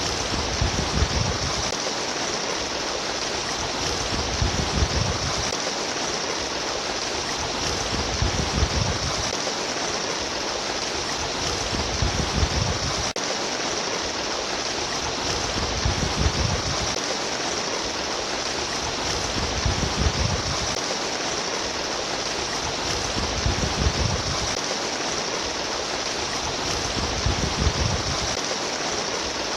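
Steady trickling, splashing water, with a low rumble swelling about every four seconds.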